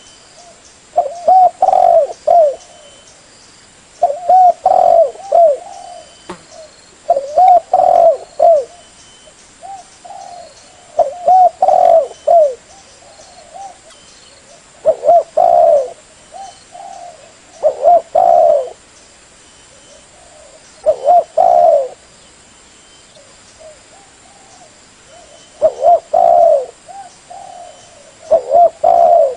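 Spotted dove (tekukur) cooing: a loud phrase of two or three low coo notes repeated about every three to four seconds, with softer coos between the phrases.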